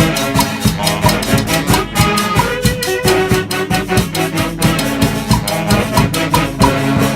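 Latin tropical dance-band music in a salsa style, with brass and percussion playing a steady beat.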